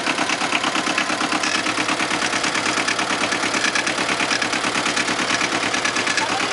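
Diesel tractor engine running steadily with a rapid, even pulse.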